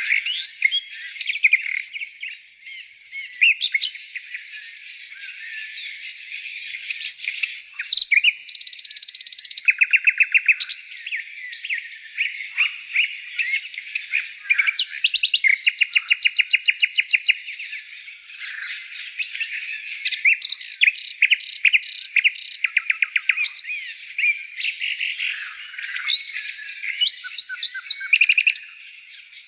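Several birds singing and calling at once: a dense chorus of overlapping chirps, whistles and fast rattling trills.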